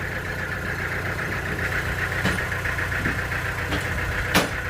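Sawmill engine running steadily with a higher continuous whine over its low hum, and a few light clicks and one sharp knock near the end.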